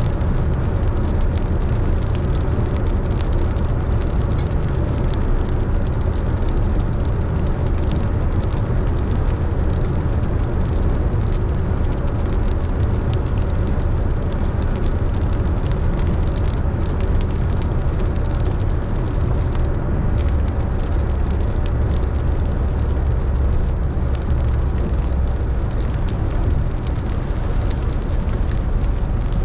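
Steady low drone of a car driving on a wet road, heard from inside the car, with a faint patter of rain on the body.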